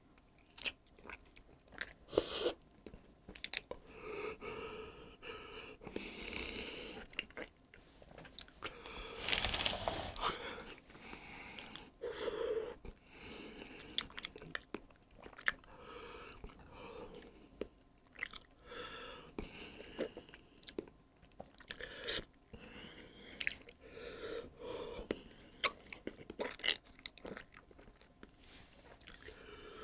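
A person chewing and crunching food close to the microphone, with many sharp crunches throughout. Breathy vocal noises come between the bites, loudest a few seconds in and again around the middle.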